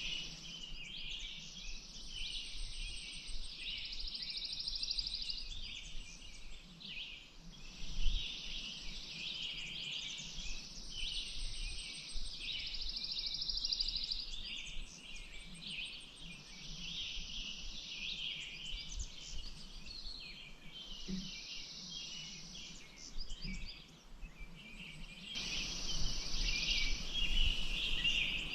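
Dawn-chorus-like mix of many small birds chirping and calling at once, with high buzzing trills that come and go every few seconds. A soft hiss rises under them near the end.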